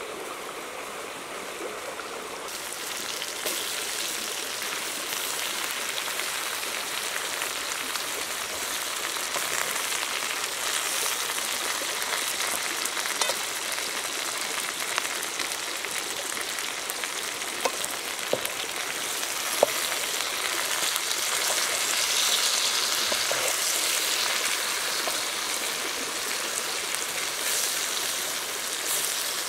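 Chicken thigh pieces and water spinach sizzling in a hot wok, the frying growing louder about two or three seconds in, with a few sharp clicks as the food is stirred.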